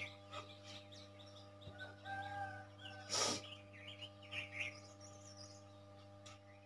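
Small birds chirping faintly over a low steady hum, with one brief rustle about three seconds in.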